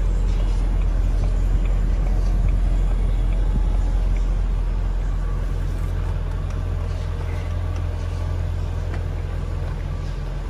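Supercharged 4.0-litre V8 of a 2001 Jaguar XKR idling: a steady low rumble with no revving, easing off slightly in the second half.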